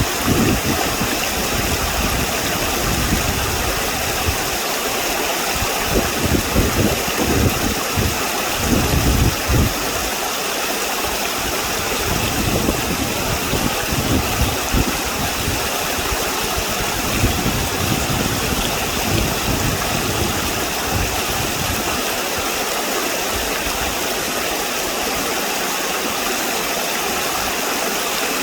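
Steady rushing of flowing stream water, with irregular low rumbles of wind buffeting the microphone during the first twenty seconds or so.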